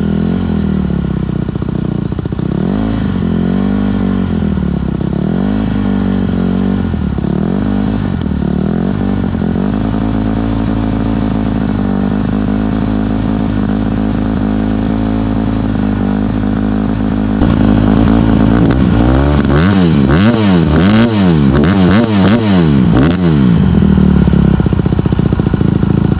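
2023 Honda CRF150RB dirt bike's four-stroke single-cylinder engine running and being revved. A few rev blips early, a steadier spell in the middle, then about two-thirds through it gets louder, with quick repeated blips of the throttle. Pretty loud.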